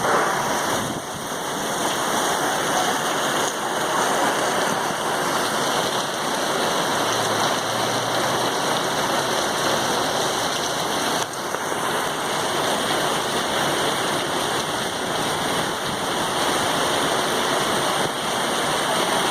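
Hailstorm: heavy rain mixed with hail pouring down in a steady, dense hiss.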